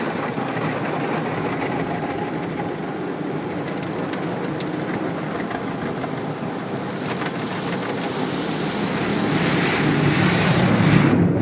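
Automatic tunnel car wash heard from inside the car: a steady rush of water spray and wash equipment working over the body. It grows louder about eight seconds in.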